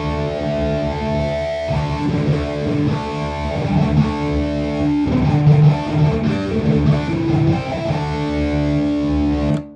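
Distorted electric guitar played through a Boss Katana Gen 3 212 combo amp, sustained chords and riffing with a fat, thick tone, stopped suddenly near the end.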